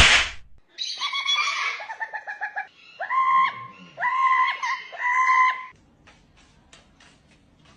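A parrot calling: a run of quick squawky notes, then three drawn-out calls about a second apart, each holding one pitch. It opens with a short burst of noise and ends with faint ticks.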